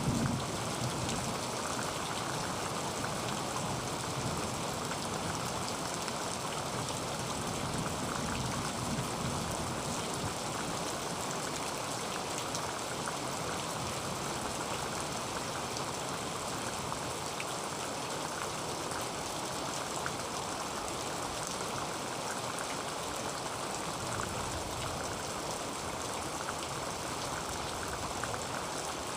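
Heavy rain falling steadily on a tin roof: a dense, even hiss made of countless fine drop hits on the metal, with no let-up.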